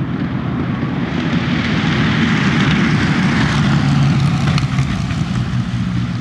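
Aircraft passing low overhead: its engine noise swells over the first couple of seconds, peaks, then fades as it moves away.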